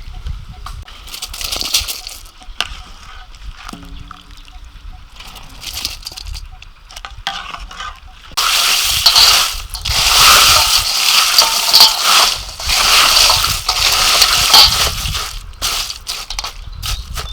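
Water sloshing and splashing, with a long, loud stretch of pouring or gushing water from about halfway through.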